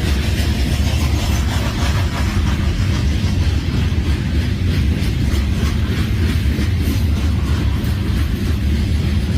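Railroad cars rolling past: a steady, loud low rumble with the clickety-clack of wheels over the rail joints.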